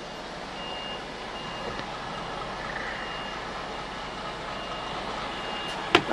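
A lorry's warning beeper sounding a steady series of high beeps, about one every 0.8 s, over the truck's engine running as it manoeuvres slowly. A single sharp knock comes near the end.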